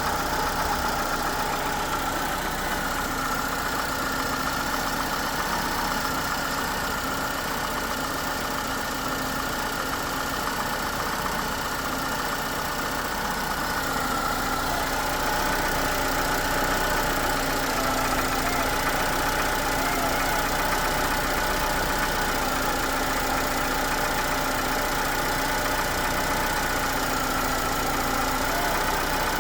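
Citroën C4's TU5JP4 1.6-litre 16-valve petrol four-cylinder idling steadily after a start in near-freezing air, with a steady whine over the running noise. It gets slightly louder about halfway through.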